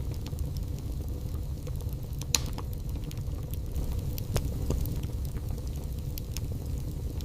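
Wood fire burning in a fireplace: a steady low rumble with scattered small crackles, and two sharper pops, one about two and a half seconds in and one a little past four seconds.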